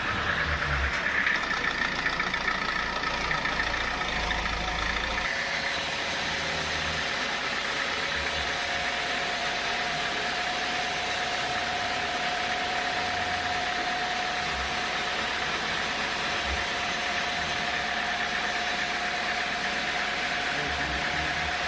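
Engine-driven sawmill machinery running steadily, with a steady whine setting in about eight seconds in.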